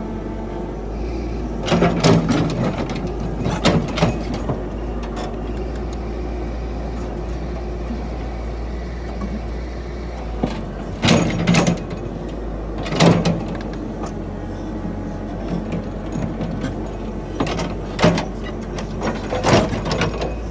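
Heavy machine's diesel engine running steadily, with loud metal clanks and knocks every few seconds, several in quick pairs, as the excavator's steel track chain is worked back on.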